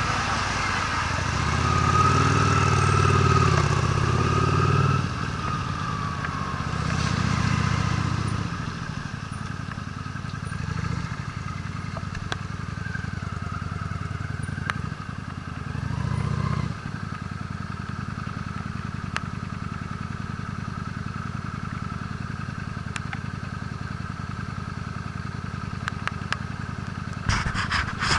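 Honda Steed V-twin motorcycle engine running, swelling with a few blips of throttle over the first half, then settling to a steady idle. A short rattle of clatter comes near the end.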